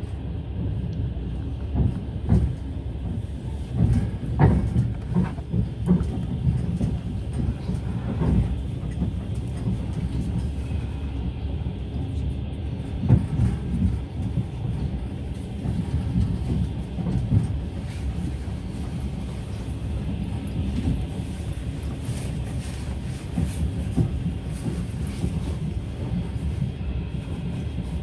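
Long-distance passenger train running on the rails: a steady low rumble with irregular knocks and clacks from the wheels.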